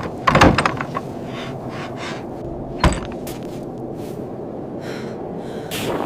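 Steady low rushing of storm wind, with a loud cluster of knocks and rattling about half a second in and one sharp knock near three seconds.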